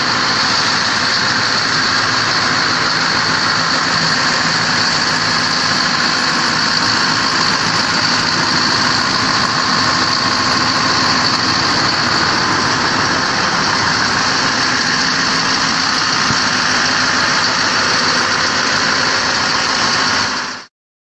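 Scania R580's V8 diesel engine idling steadily, with a steady high-pitched whine above it. The sound cuts off suddenly near the end.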